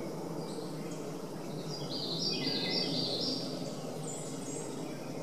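A run of short, high chirping bird calls at several overlapping pitches, starting a little under two seconds in and lasting about two seconds, with a few fainter high notes after. Under them runs a steady low background hum.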